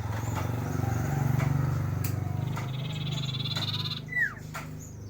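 A common iora (cipow) singing: a rapid high trill starting about two and a half seconds in, then a short falling whistle just after four seconds. Under the bird runs a steady low pulsing hum.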